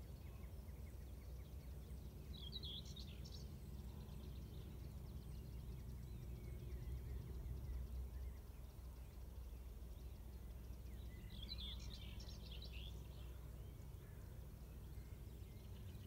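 Small birds chirping in two short bursts, about three seconds in and again about twelve seconds in, over a steady low background rumble.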